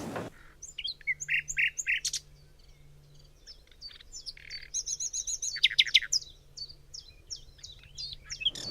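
Songbirds chirping and singing: a series of short, high chirps and quick downward-sliding notes, with a fast run of repeated notes in the middle.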